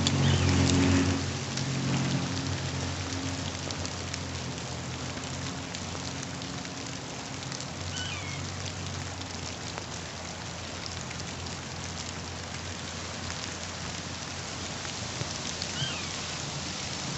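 Steady rain falling, a continuous even hiss. A low hum fades out over the first couple of seconds, and two short falling chirps come about eight seconds apart.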